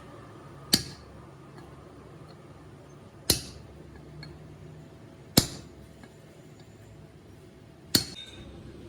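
Four sharp metallic strikes, spaced two to three seconds apart, each ringing briefly: a hammer tapping on a steel part.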